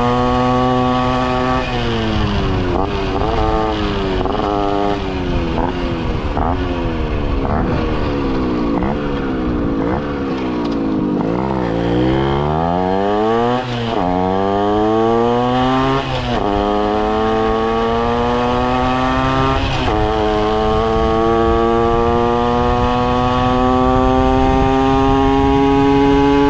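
Two-stroke moped engine, an 80cc Minarelli AM6, revving up and down in a run of short throttle surges, then falling to low revs. It then pulls up through the gears: the revs drop sharply at three upshifts, then climb steadily in a long rising pitch.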